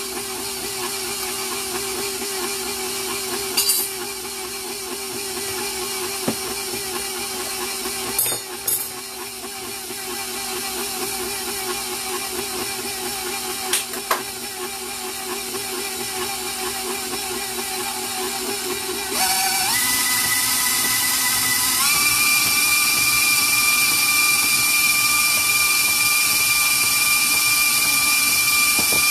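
Electric stand mixer with a paddle attachment beating cream cheese frosting. It starts on low speed with a steady motor whine and a few light knocks. About two-thirds of the way through it is switched up a speed, and a few seconds later up again, the whine rising in pitch and growing louder at each step.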